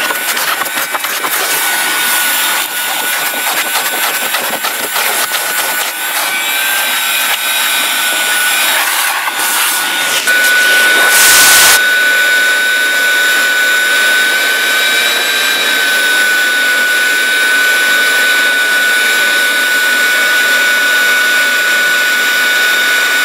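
Vacuum cleaner running with a steady high whine as its nozzle works over the carpeted truck bed, crackling as it picks up debris in the first seconds and giving one brief louder rush of air about halfway through.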